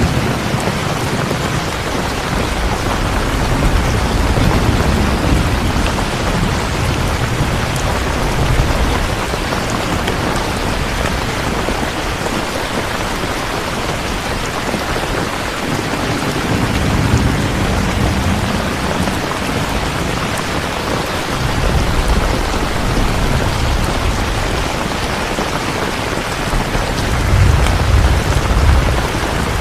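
Steady heavy rain with thunder rumbling low several times, the rumble swelling near the start, in the middle and again near the end.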